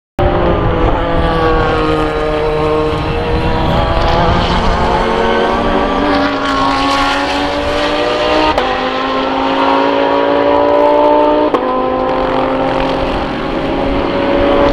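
SUPER GT race car engine accelerating hard onto a straight, its pitch climbing steadily and dropping sharply twice at upshifts.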